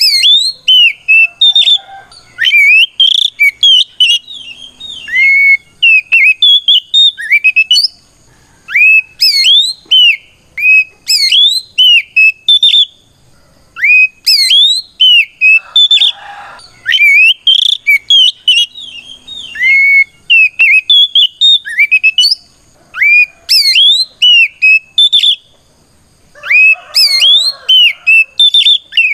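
Oriental magpie-robin (kacer) singing loudly in repeated bursts of clear whistled notes that sweep quickly up and down, broken by short pauses. It is the bird's loud challenge song, calling out a rival.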